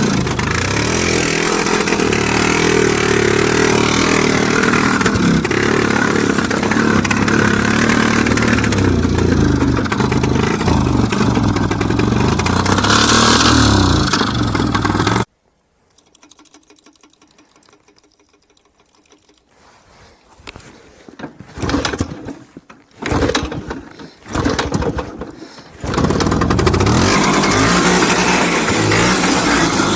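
IZh Planeta 3 motorcycle's single-cylinder two-stroke engine running, then cutting out suddenly about halfway. After several seconds of quiet, a few short uneven bursts as it is restarted, and it catches and runs steadily again about four seconds before the end.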